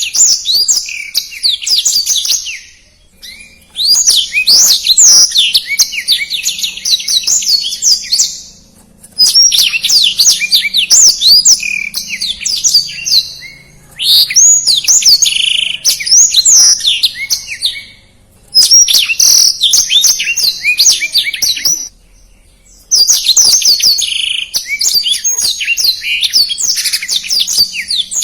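Blackthroat (black-throated canary) singing fast, dense song: long phrases of quick high twittering notes and trills, each running three to five seconds, broken by five short pauses.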